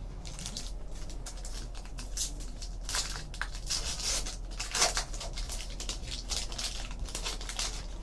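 A trading-card pack wrapper crinkling and tearing open as the cards are handled: a string of irregular, soft crackles and rustles.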